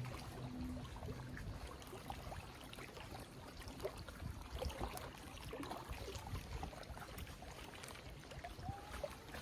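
Water lapping and trickling against a kayak hull, with small scattered clicks and knocks.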